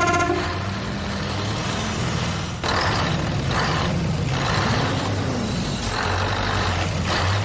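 A vehicle engine running steadily, its pitch rising and falling a little. A horn toot cuts off just after the start.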